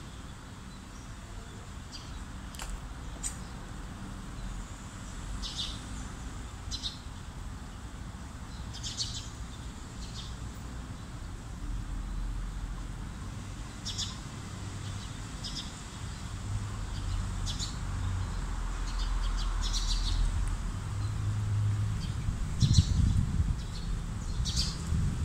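Birds chirping, short high calls scattered every second or two, over a low rumbling noise that grows louder near the end.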